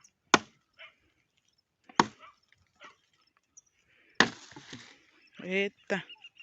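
Three heavy wooden knocks about two seconds apart, the last followed by a short crackle of splintering branches: logs and branches being struck or thrown down among cut tree trunks.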